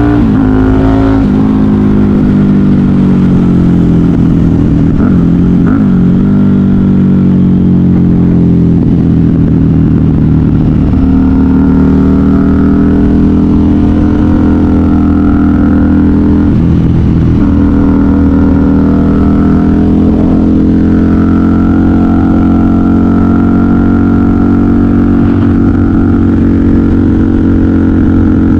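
KTM 990 Super Duke R's V-twin engine through a custom exhaust, pulling under load on the move, its note falling and rising with the throttle and dipping briefly a few times.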